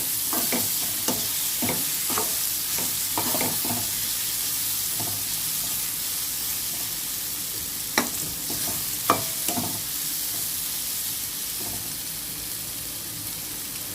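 Carrot fry sizzling in hot oil in a pan while a spoon stirs and scrapes through it, with a run of scraping strokes in the first few seconds. Two sharp knocks come about eight and nine seconds in.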